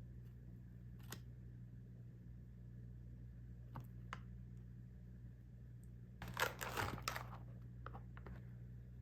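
A few light clicks and taps of food packaging being handled, then about a second of rustling and crinkling of the packaging around six seconds in, over a low steady hum.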